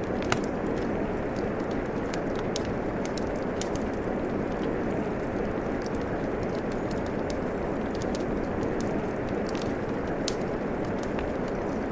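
Steady rain hiss mixed with a wood fire crackling: a dense, even wash of rain under scattered sharp pops and snaps from the burning logs, one louder pop just after the start.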